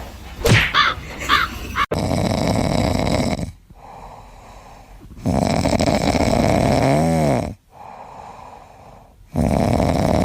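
A sleeping pet snoring: three long, rasping snores a few seconds apart, the second ending in a short squeaky whistle. A brief high, wavering sound comes before the snores, in the first second or two.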